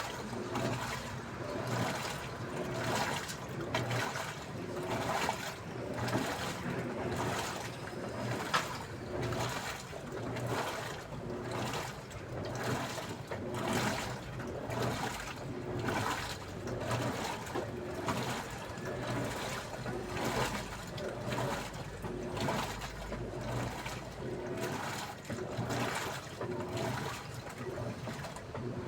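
Daewoo washing machine washing: water sloshing in the drum as the wash action swishes it back and forth in a regular rhythm.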